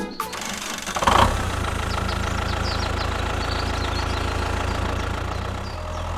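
Tractor engine starting up about a second in, then idling steadily with an even low hum.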